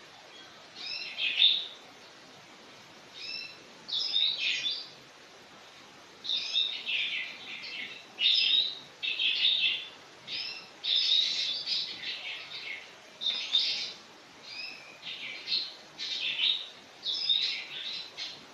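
Small birds chirping in a run of short high phrases, one after another with brief pauses, over a steady faint hiss.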